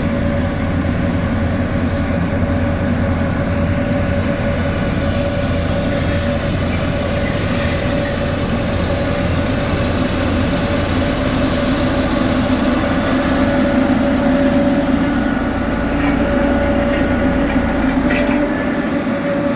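Heavy road-paving machinery running steadily under load: a low diesel rumble with a steady, even-pitched hum over it.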